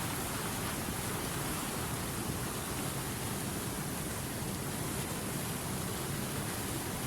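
River water rushing over rapids, a steady, even rush.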